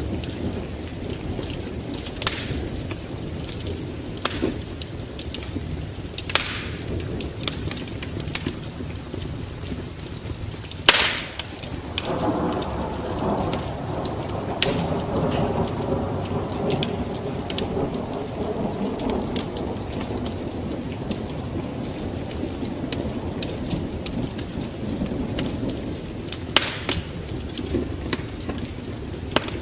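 Wood fire crackling in a fireplace, with scattered sharp pops over a steady low rumble. A fuller rumbling swell rises about twelve seconds in and fades several seconds later.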